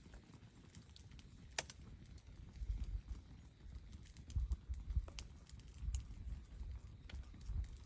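Wood campfire crackling with scattered sharp pops, about eight in a few seconds, over low irregular rumbling thumps.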